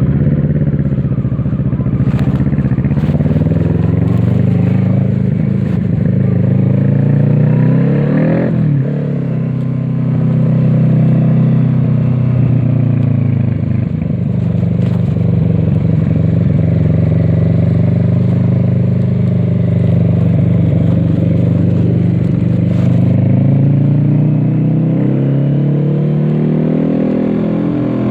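Kawasaki Z650 parallel-twin engine through a Dominator aftermarket exhaust, heard from on board while riding on track. The revs climb for about eight seconds, drop sharply, hold steadier through the middle and climb again near the end.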